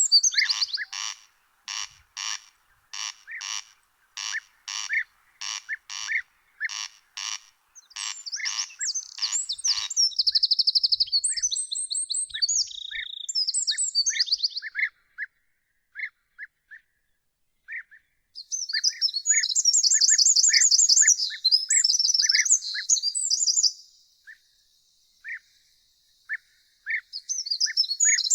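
Birds singing. For the first ten seconds a harsh, rasping call repeats about twice a second. After that come high trilling and warbling song phrases, with short chirps repeated through the second half.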